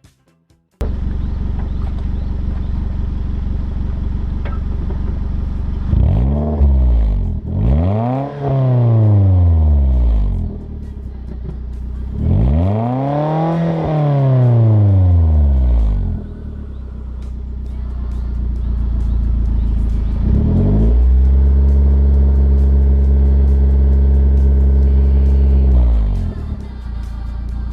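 Suzuki Swift with an aftermarket TRUST muffler, its engine idling and then revved in place: a quick blip, two revs that rise and fall, and a longer rev held high for about five seconds before dropping back to idle.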